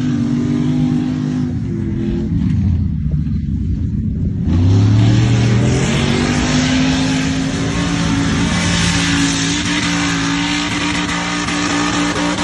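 Mud truck engine at high revs. It eases off about two seconds in, then revs hard back up about four and a half seconds in and holds high.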